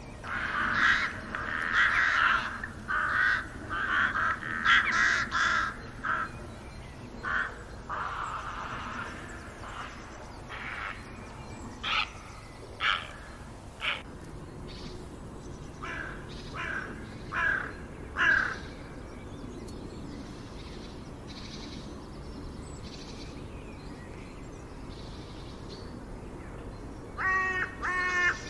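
Birds calling over a steady background hiss: a series of short calls, close together at first, then more spaced out, and a quick rattling call near the end.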